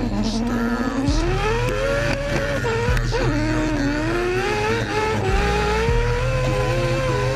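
Rotary engine revving, its pitch climbing for a couple of seconds, dipping briefly as at a gear change, then climbing again and holding high.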